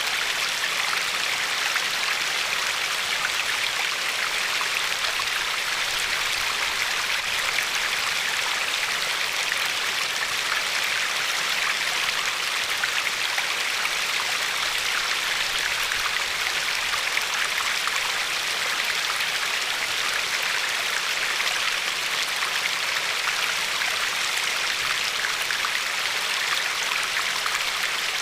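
River water flowing and lapping over a pebble shore: a steady rushing with a fine crackle of small splashes.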